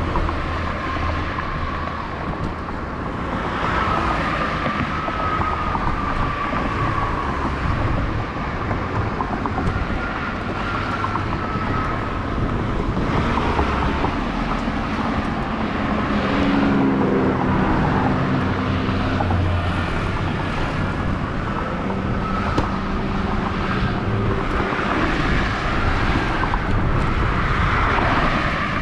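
Steady rolling and wind noise from riding a bicycle, with a faint wavering whine; a motor vehicle's engine swells briefly past the middle.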